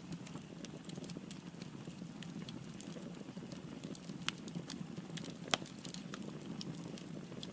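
Firewood burning in a fireplace: a steady low rush of flames with irregular sharp crackles and pops, the loudest a little past the middle.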